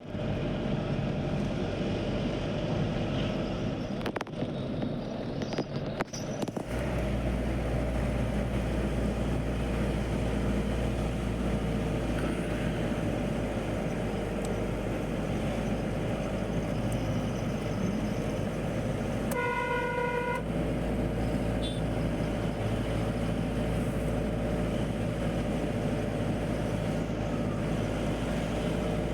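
Road vehicle running steadily, with a few knocks in the first seconds. A vehicle horn sounds once for about a second around two-thirds of the way through.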